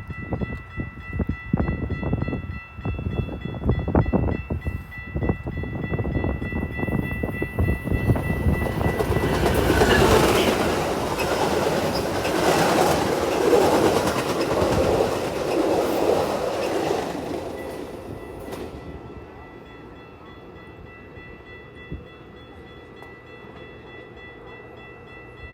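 A train passing: wheels clacking over rail joints with a low rumble, building to a loud rush of wheel and rail noise through the middle, then fading away about three-quarters of the way through.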